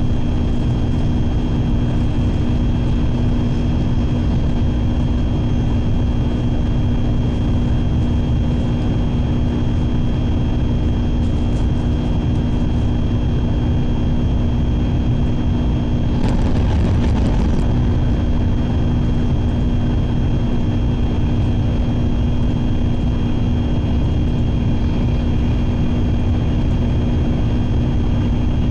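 Shinkansen train running at speed, heard from inside the passenger cabin: a steady low rumble with a constant hum. About sixteen seconds in, a brief louder rush lasts a second or two.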